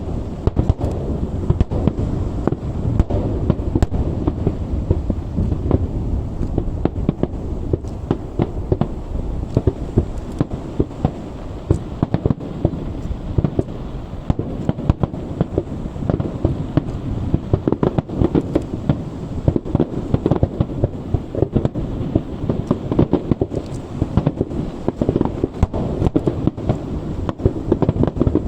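Fireworks show finale: a dense, continuous barrage of bangs and crackling shell bursts with no pause, the bangs deep and dull rather than sharp.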